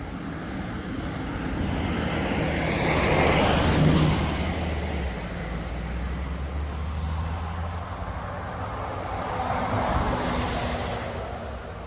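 Two road vehicles passing by one after the other, each swelling and fading as it goes past. The first is loudest about four seconds in, with a low engine hum trailing after it; the second passes about ten seconds in.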